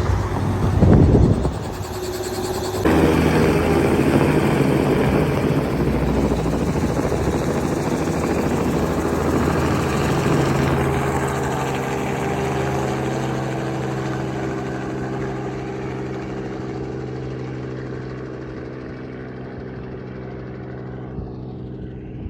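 Helicopter's rotor and engine drone, steady in pitch and slowly fading as it flies away. A loud, rushing noise fills the first few seconds before the drone takes over.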